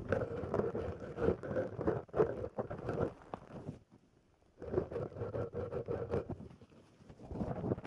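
Silicone brush scrubbing against a microphone: two spells of dense crackly scratching, about three and two seconds long, with a short pause between them and another starting near the end.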